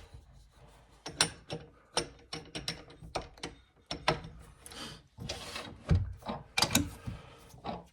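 A run of irregular sharp clicks and knocks with a few short scrapes: hand tools and workpieces being handled and set down at a woodworking bench.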